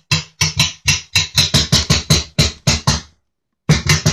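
Snare drum strikes from a phone recording, played back through an amp and rebuilt home-made three-way speakers: a fast even run of about five hits a second. It breaks off for half a second near the end, then starts again.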